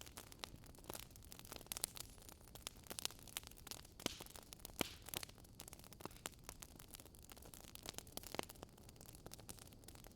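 Fire crackling: irregular sharp pops and snaps over a steady soft hiss.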